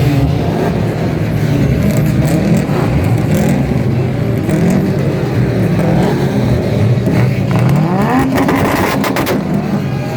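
Car engine revving up and down over and over, the pitch climbing and dropping several times with one long rise about three-quarters of the way through. A cluster of sharp crackles comes near the end.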